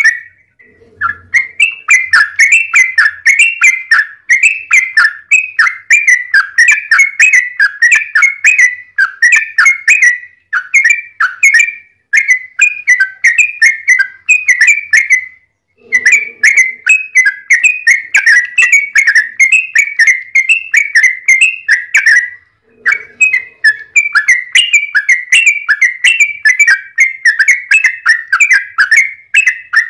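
Yellow-vented bulbul (trucukan) song: long, rapid runs of bubbling, chattering notes. There are short breaks about halfway through and again about three-quarters of the way in.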